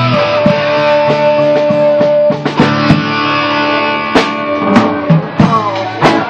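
Live rock band playing an instrumental section: an electric guitar lead holds long notes over a drum kit, with several notes sliding down in pitch near the end.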